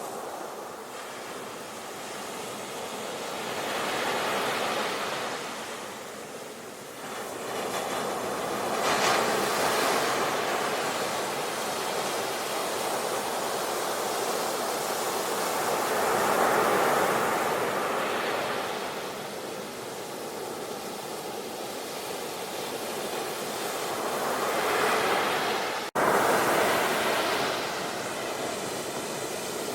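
Sea waves breaking and washing up a shore, the surf swelling and falling back every few seconds. Near the end the sound cuts out for an instant and resumes abruptly with a loud surge.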